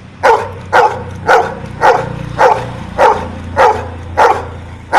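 A trained dog barking on cue to count to ten: short, evenly spaced barks, about two a second.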